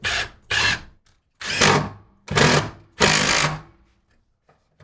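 A power drill/driver running a screw in about five short bursts, forcing it through wood into a steel stud until the screw bites into the steel.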